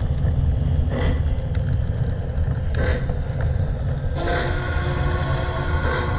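Lionel LionChief 2-4-2 toy steam locomotive running on track with a steady low rumble and a short puff about every two seconds. About four seconds in, its steam whistle sounds and holds.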